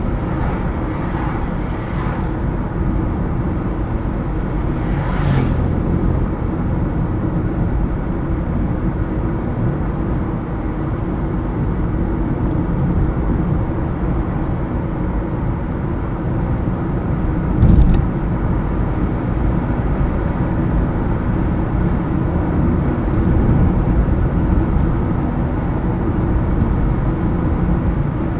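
A car driving along a road, with steady engine and tyre rumble and a single short thump about two-thirds of the way through.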